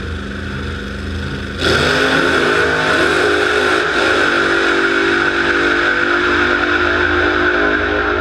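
An engine running. About a second and a half in it suddenly gets louder, its pitch rises over about two seconds, then it holds steady.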